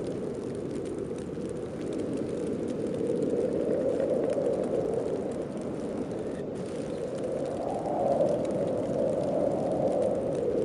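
Snowstorm wind blowing as a steady rush, swelling in gusts about four seconds in and again more strongly near the end.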